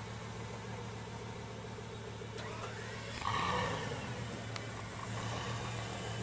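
Bugatti Veyron Grand Sport's quad-turbo W16 engine idling, with one short throttle blip about three seconds in that rises and falls in pitch.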